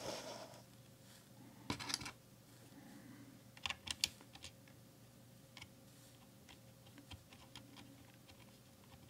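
Scattered faint clicks from handling a mechanical keyboard's Blue switch as it is greased with Vaseline, with a sharper cluster of clicks about four seconds in.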